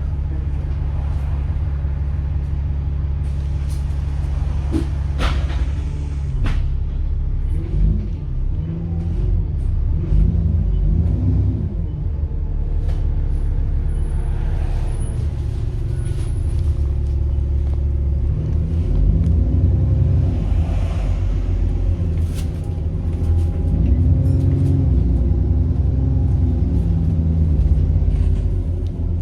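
Diesel engine of a First South Yorkshire single-deck bus running under load: a deep rumble whose pitch rises and falls several times as the bus accelerates and eases off, with a thin high turbocharger whine over it and a few sharp rattles and clicks near the start.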